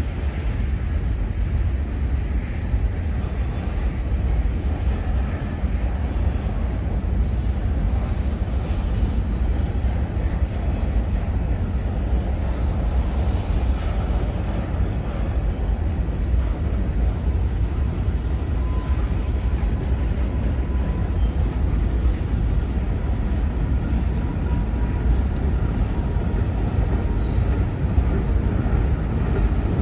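Steady, loud rumble of a passing train, heaviest in the low end, with no sharp breaks. A faint thin tone comes in briefly around the middle.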